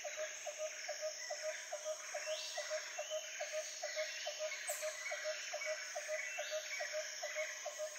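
Tropical rainforest ambience: a steady high insect drone, with an animal call repeating a short note about three times a second and a higher call every couple of seconds.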